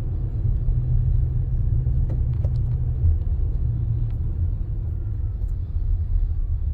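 Steady low rumble of a car heard from inside the cabin, the engine and road noise of the car being driven.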